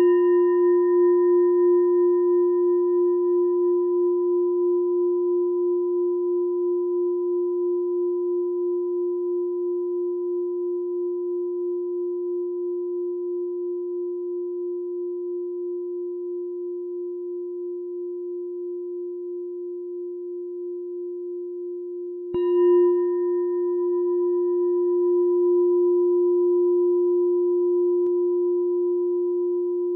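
A meditation bell ringing with one deep steady tone and a slow wavering pulse, fading gradually; it is struck again about 22 seconds in and rings on.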